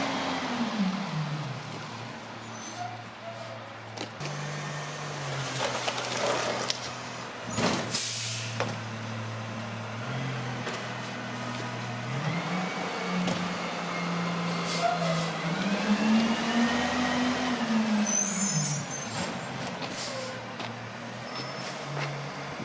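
International garbage truck's diesel engine revving up and down several times as it works, with scattered clanks and a short burst of air-brake hiss about eight seconds in.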